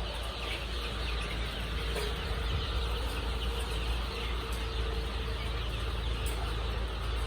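Many layer chicks cheeping at once, a dense continuous chatter of short high calls over a steady low rumble.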